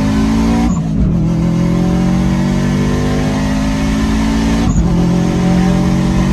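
Subaru EJ257 turbocharged flat-four engine under hard acceleration, its pitch climbing steadily through the gears. Two gear shifts, about three-quarters of a second in and near five seconds in, each drop the revs briefly before they climb again.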